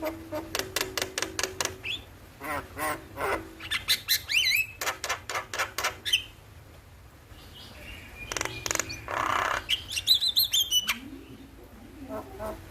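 Javan myna calling: rapid chattering runs of clicks broken by short gliding whistles, with a harsh rasping call about nine seconds in.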